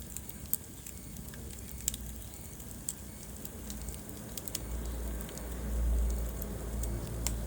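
Wood fire crackling in a fireplace, with scattered sharp pops over a steady hiss. A low rumble swells about five seconds in.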